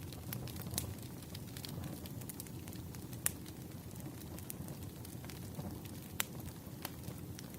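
Wood fire burning: a low, steady rumble of flames with scattered sharp crackles and pops from the firewood, the loudest about three seconds and six seconds in.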